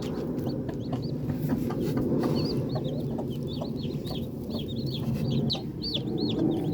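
Newly hatched chicks peeping: many short, high chirps in quick succession, getting busier after about two seconds. A broody hen clucks low beneath them.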